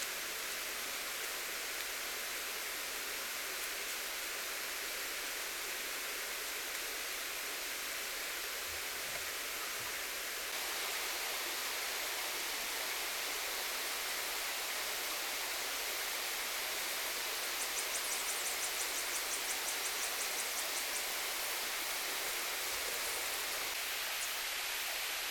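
Steady rushing hiss that gets a little louder about ten seconds in, with a quick run of faint high ticks a little past the middle.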